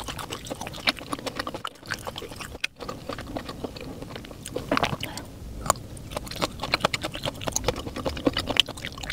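A woman chewing a mouthful of boiled pork intestine close to a clip-on microphone: many quick, irregular wet clicks and smacks of the mouth.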